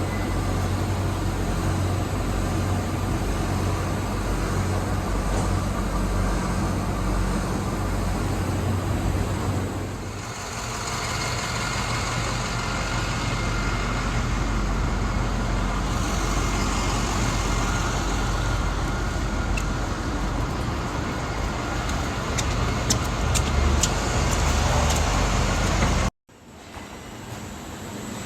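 Vehicle engine running steadily with a low hum; about ten seconds in the sound shifts and a faint steady whine joins it, then it cuts off abruptly near the end.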